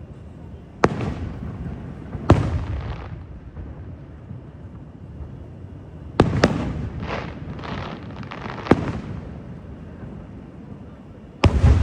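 Fireworks display: aerial shells bursting with five sharp bangs spread across the stretch, each trailing off in a short rumble. After the third bang comes a quick run of smaller pops.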